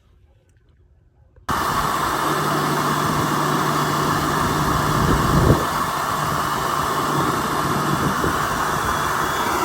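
Water-extraction machine running: a loud, steady rushing noise with a low hum underneath, starting abruptly about a second and a half in, with a brief surge near the middle.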